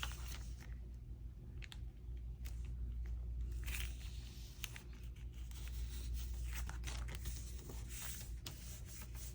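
Paper being handled and worked by hand: rustling and scraping in short, irregular strokes.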